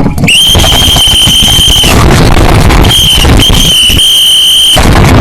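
A loud, steady, high-pitched squealing tone holding one pitch. It sounds for about a second and a half, breaks off, then comes back twice (briefly, then for over a second), over heavy, rough, distorted noise.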